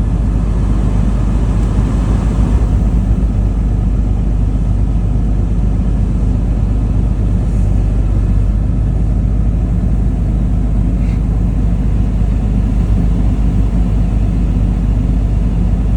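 Cummins 6.7 turbo-diesel in a RAM pickup idling steadily while still cold, just after a cold start, heard from inside the cab with the heater blower running.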